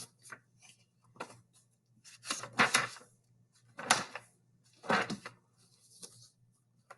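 A series of short rustling and knocking handling noises, about six in a row spaced roughly a second apart, over a faint steady hum.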